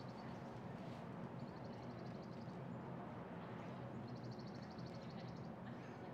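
Outdoor ambience: a steady faint background hiss, with a small bird giving a high, rapid trill twice, about a second and a half in and again around four seconds in.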